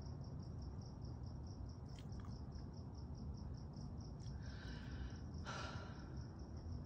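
A faint, high-pitched chirping that pulses evenly about three times a second. Two short breathy noises come about four and a half and five and a half seconds in.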